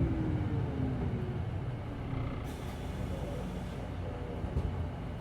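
Hino Blue Ribbon City Hybrid bus slowing to a halt, its drive whine falling in pitch as the running noise fades, then a short hiss of air brakes about two and a half seconds in, over a steady low rumble.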